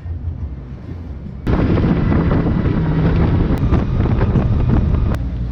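Boat running on the water, its engine hum under loud rushing wind and water noise on the microphone, which grows louder from about a second and a half in until near the end.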